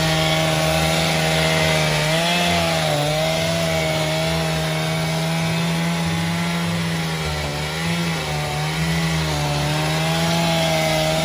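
Stihl two-stroke chainsaw running at high revs while cutting through a log, its pitch sagging briefly a few times as the chain bites into the wood.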